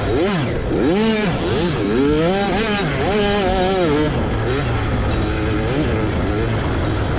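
65cc two-stroke motocross bike engine revving hard and backing off, its pitch swooping up and down several times in the first four seconds, then running steadier near full throttle.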